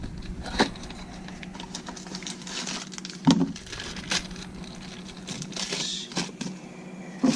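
Plastic parts packaging crinkling while small parts are handled, with scattered clicks and a few sharper knocks. A steady low hum runs underneath.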